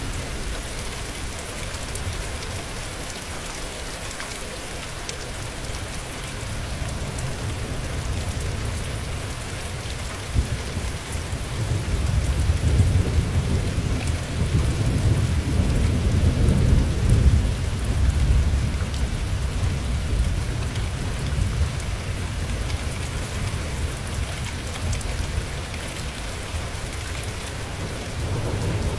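Steady rain with a long, low rumble of thunder that swells about eleven seconds in, is loudest in the middle, then slowly dies away.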